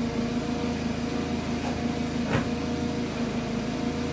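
A steady machine hum with a single sharp click a little over halfway through.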